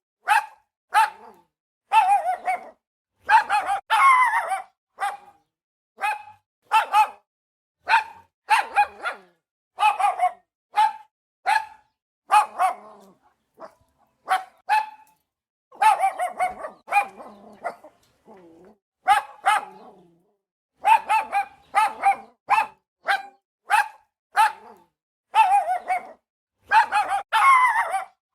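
Dog barking repeatedly: short, sharp barks about once a second, some coming in quick runs of two to four.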